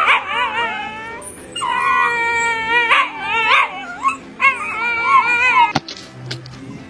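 Dog howling and whining in a series of high, wavering cries, one held for about a second, stopping with a sharp click about six seconds in.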